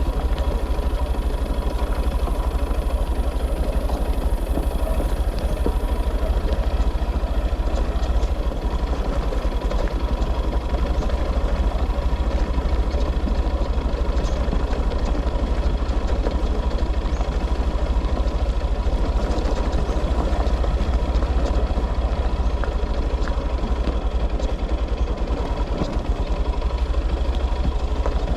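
A motor vehicle's engine running steadily, with a constant low rumble.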